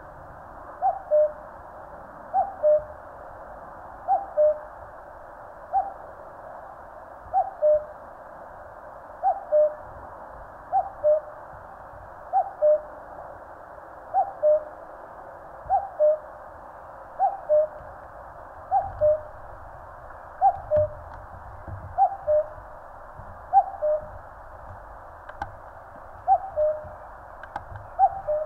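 Common cuckoo calling its two-note "cuck-oo", the second note lower than the first, repeated steadily about every second and a half.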